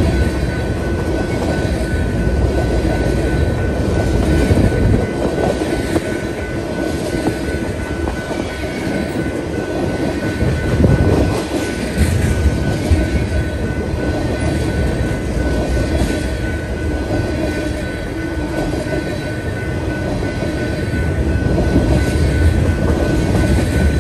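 Crude oil tank cars rolling past at track speed: a steady rumble of steel wheels on rail, with a few short clacks from the trucks and a thin steady high tone above the rumble.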